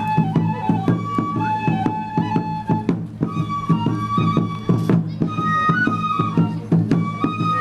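Traditional Japanese music led by a flute playing long held notes that step up and down, over many quick percussive hits.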